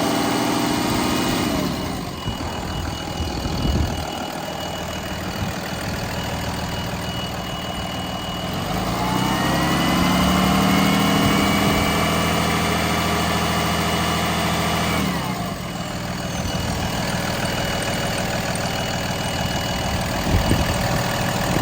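2014 Cummins ISB 6.7-litre turbocharged inline-six diesel running: the revs fall to idle in the first couple of seconds, then it idles. About nine seconds in it is revved up and held at a higher speed for about five seconds before dropping back to idle.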